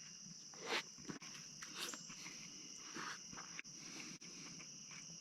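Steady high-pitched insect chorus, with a few faint brief noises, the clearest about a second in.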